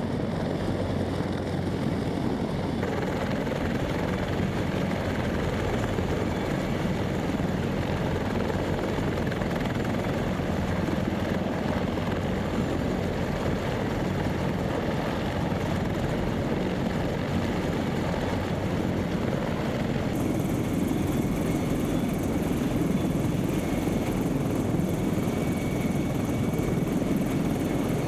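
Military aircraft running on an airfield: a loud, steady drone of engines and rotors or propellers, its character changing abruptly about three seconds in and again near twenty seconds.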